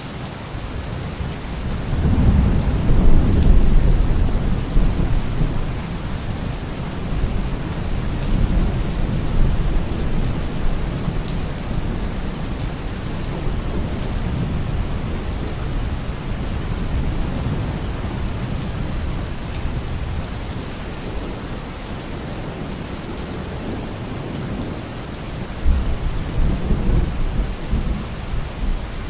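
Steady heavy rain on surfaces, with a long roll of distant thunder rumbling low about two seconds in and another near the end.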